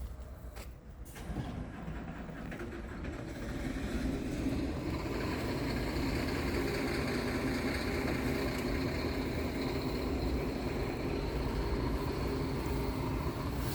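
Scania R tractor unit's diesel engine running, growing louder over the first few seconds and then holding steady, with a few clicks near the start.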